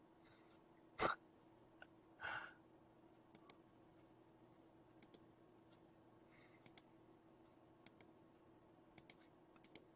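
Computer mouse clicking: one sharper click about a second in, then faint scattered clicks, over a faint steady hum. A short breath just after two seconds.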